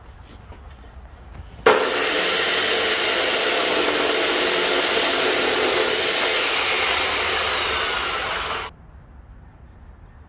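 Angle grinder working a steel leaf spring, starting suddenly about two seconds in, running steadily under load for about seven seconds, then cutting off abruptly.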